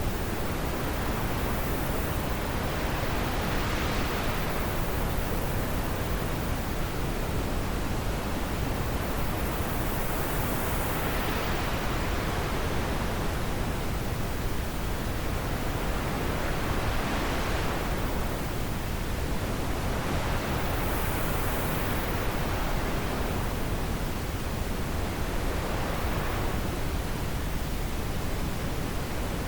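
Steady rushing wind, with gusts that swell and fade about every seven to eight seconds.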